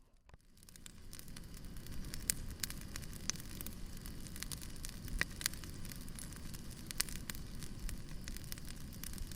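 Crackling wood fire: a steady low rumble of burning logs with sharp crackles and pops scattered through it, fading in over the first second after a brief near-silent gap.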